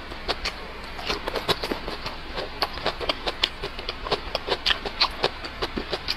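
Close chewing of cooked long green chili peppers: quick, irregular wet clicks and smacks of the mouth, a few each second.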